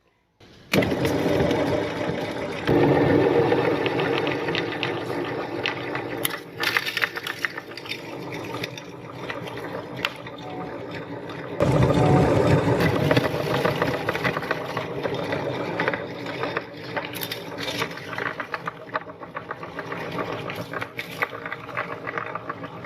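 Meat grinder running and grinding through a load. The sound starts suddenly just under a second in and gets louder twice, at about 3 seconds and about 12 seconds, with many sharp cracks and crunches through the second half.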